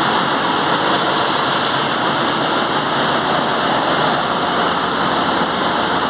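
Steady, loud machinery noise of a ship's engine room, a dense even din with a few faint steady high-pitched whines above it.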